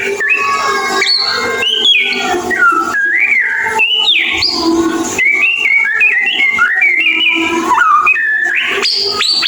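White-rumped shama singing a fast, unbroken string of varied whistled notes that slide up and down in pitch, mixed with chattering phrases.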